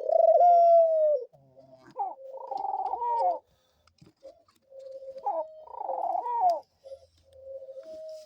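A pair of doves cooing to each other, the soft back-and-forth "chat" of a bonded pair. There are about four coos: a long, even one at the start, two fuller coos that rise and fall in pitch, and a softer one near the end.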